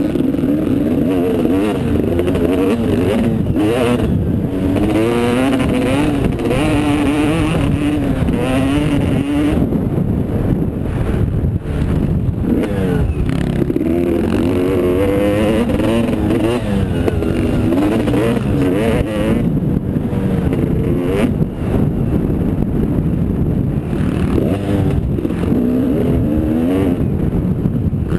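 Motocross motorcycle engines running hard, their pitch climbing and dropping again and again as the throttle is opened and closed.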